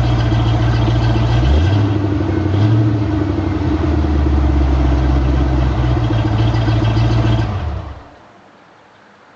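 1991 Ford Mustang GT's 5.0-litre V8 running through BBK headers, an H-pipe and a Flowmaster American Thunder Super 44 cat-back exhaust. The engine speed steps up about a second and a half in and holds steady. The engine then dies away near the end, as if switched off.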